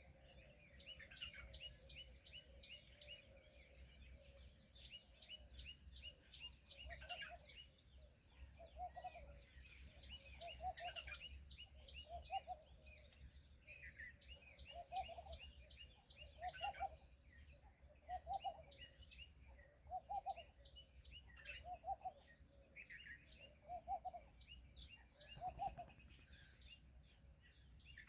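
Birds chirping faintly: rapid runs of high chirps, joined from about eight seconds in by a lower call repeated about once a second.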